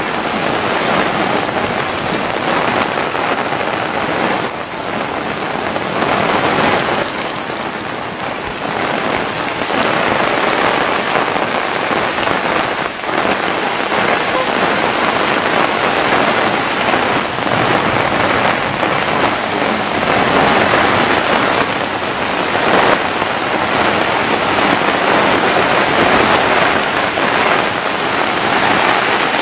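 Heavy rain pouring down in strong wind: a loud, steady hiss of rain pelting an umbrella and the ground, swelling and easing slightly with the gusts.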